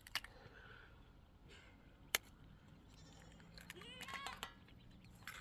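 A sheep bleating once, a short wavering call about three-quarters of the way in, over faint background noise. A single sharp click comes a little before the middle.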